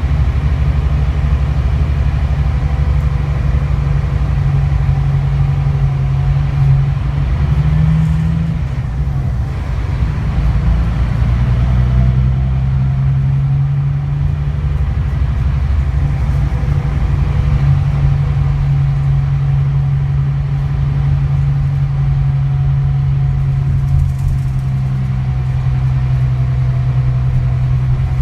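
Scania K360IB bus's diesel engine running with a steady low drone, its pitch rising briefly about eight seconds in before settling lower and holding steady.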